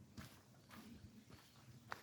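Faint footsteps on a forest path, about one step every half second.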